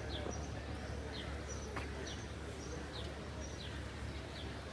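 A small bird chirping over and over, a short falling chirp about once a second, over a steady low hum of city street noise.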